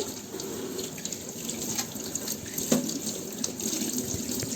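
Kitchen tap running, water splashing as a dishwasher filter is rinsed under it, with a single knock about two-thirds of the way through.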